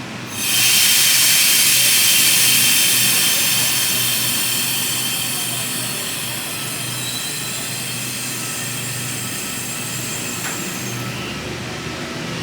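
Sydney suburban train at the platform: a loud hiss with high, steady squealing tones from the train cuts in suddenly, then slowly fades away.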